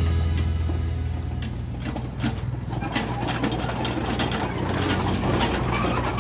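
Mini excavator working soil: its diesel engine runs with a steady low hum under repeated metallic clicks and clanks, which grow busier from about halfway through.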